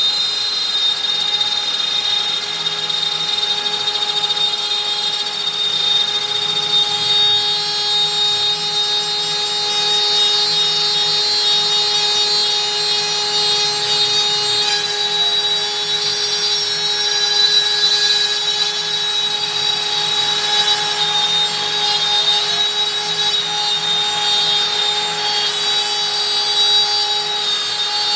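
Stepcraft M1000 CNC router's spindle running at 25,000 rpm with a steady whine, its 4 mm up-down compression bit cutting out a part in beech. The higher tones shift about halfway through as the load on the cutter changes.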